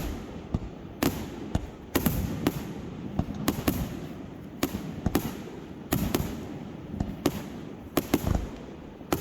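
Fireworks going off: an irregular run of sharp bangs, about two a second, each followed by a low rumbling echo.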